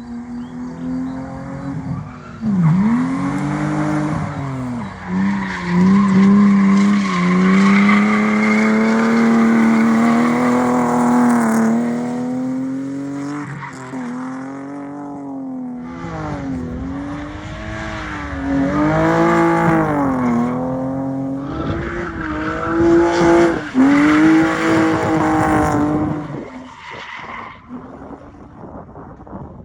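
BMW M50B25 2.5-litre straight-six in an Opel Kadett drift car, revving up and down hard through the slides, with tyre squeal over the engine. The engine fades away near the end.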